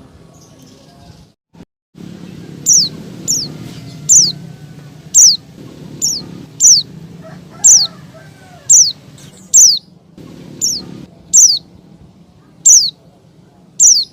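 Female white-eye (pleci) giving a series of short, high calls, each sliding downward in pitch, roughly one a second, beginning near the third second over a low background noise. It is the female's call to males, used as a lure to set caged males singing.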